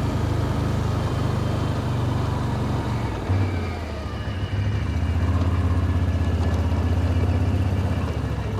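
A vehicle engine running steadily, its note changing about three seconds in.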